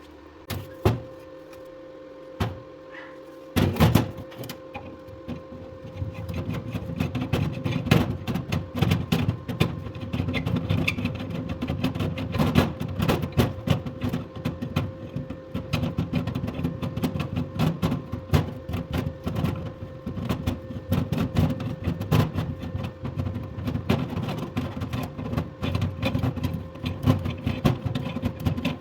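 Electric arc welding on iron: a few sharp clicks, then from about three and a half seconds in, the arc's continuous irregular crackling and sputtering.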